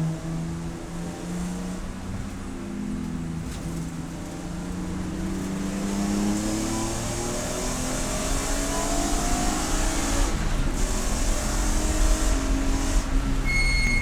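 Race car engine pulling hard, its pitch climbing and dropping back again and again as it runs through the gears, over steady road and wind noise. A steady electronic beep starts near the end.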